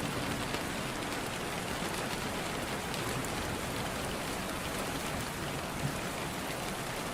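Steady rain falling, an even hiss of many raindrops on a surface.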